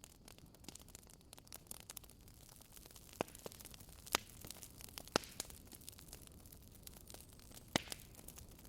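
Wood fire crackling in a fireplace: many short snaps and pops over a low steady hiss, with a few louder pops in the second half.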